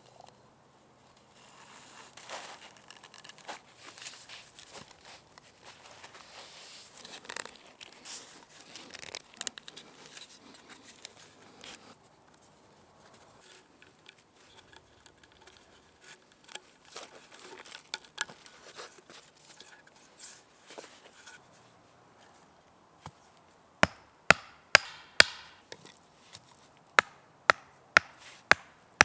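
Rustling and light scraping of hand work on wood, with scattered small clicks, then near the end a run of sharp, loud wooden knocks, about two a second: a handmade log hammer striking.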